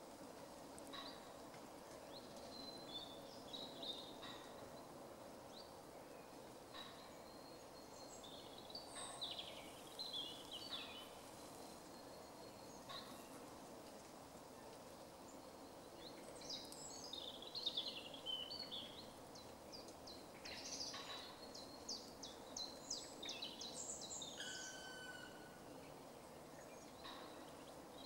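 Small songbirds chirping and twittering on and off, with short high calls that come thickest in the second half, over a steady low background hum. A few faint sharp taps sound now and then.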